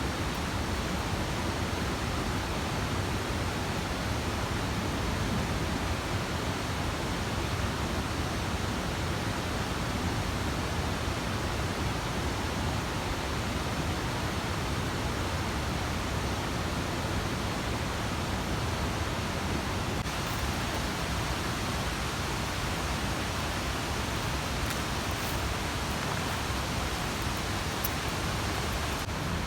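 Mountain stream rushing: a steady, even wash of water noise.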